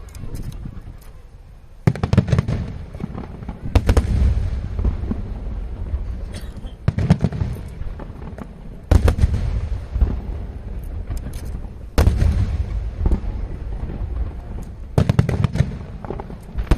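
Aerial firework shells bursting in the sky: a sharp boom every second or two, each followed by a rolling, echoing rumble, with smaller pops and crackles in between.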